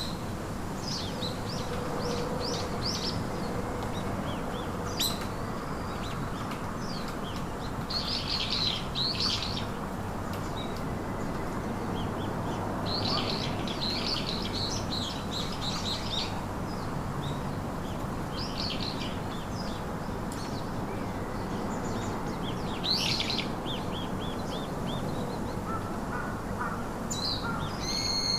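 Several small songbirds chirping and twittering in short bursts of quick high notes, a few seconds apart, over a steady low outdoor background hiss.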